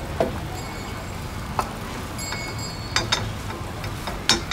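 Beaten egg frying in oil in a pan, a faint sizzle over a steady background hum. Five short sharp clinks of utensils sound over it: one just after the start, one at about a second and a half, two close together around three seconds, and the loudest just before the end.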